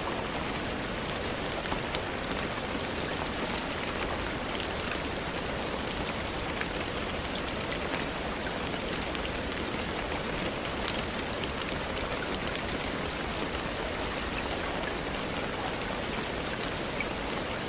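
Steady rain: a constant even hiss with many small, scattered drop ticks.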